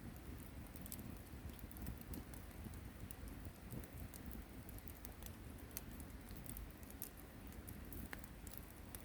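Wood campfire burning with irregular sharp crackles and pops over a low steady rumble.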